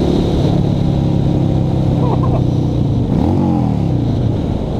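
Honda Shadow V-twin motorcycle engine running steadily under way. About three seconds in, the engine note rises briefly and drops back, then the engine sound eases off near the end.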